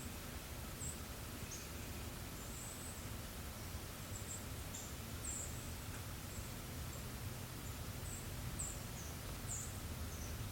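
Forest birds calling: many short, very high, thin chirps scattered throughout, over a steady low rush of breeze.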